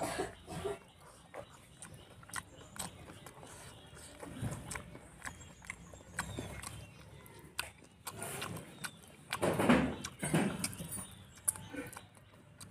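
Close-miked mouth sounds of a man eating rice and spicy pork curry by hand: wet chewing and lip smacking in a run of short clicks, with a louder spell of mouth noise about ten seconds in.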